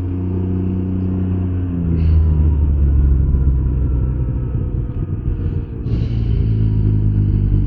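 Can-Am Ryker 900 three-wheeler's three-cylinder engine running under way with road and wind noise; it rises about two seconds in and eases off briefly around five seconds in before picking up again.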